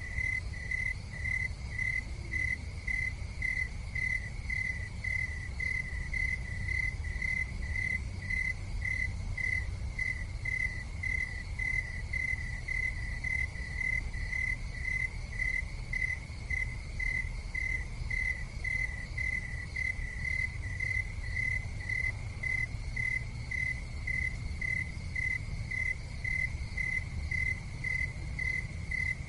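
An insect chirping steadily, about two evenly spaced chirps a second, over a low steady rumble.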